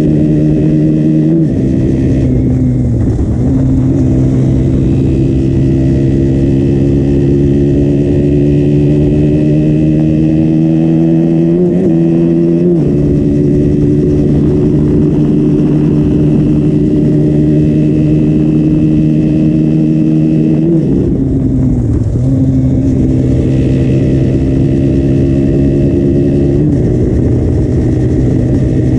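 2015 KTM Duke 125's single-cylinder four-stroke engine running through its stock exhaust. Its pitch climbs slowly and steadily, dropping back briefly a few times, near the start, about halfway through and twice toward the end, before climbing again.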